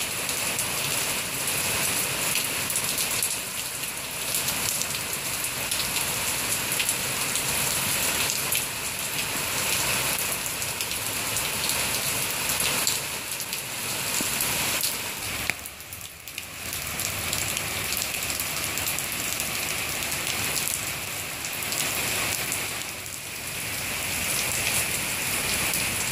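Heavy rain falling steadily, a downpour strong enough to send floodwater across the ground. It eases briefly a little past halfway.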